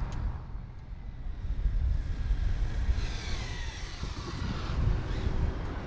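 Radio-controlled drag car's electric motor whining, the pitch gliding down as the car slows in the middle, over a low wind rumble on the microphone.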